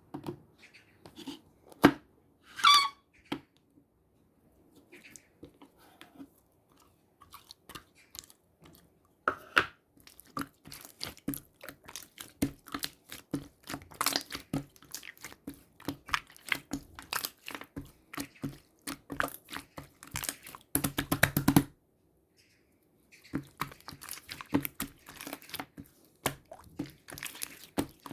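Close, crisp crunching and crackling clicks in irregular runs, sparse at first and then dense, with a tight rapid burst about three-quarters of the way through.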